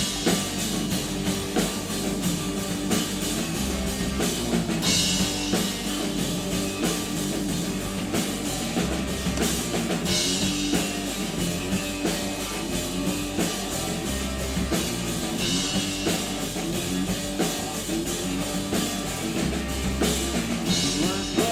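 A live rock band playing an instrumental intro: drum kit with a steady beat and cymbal crashes every few seconds, under guitar and bass.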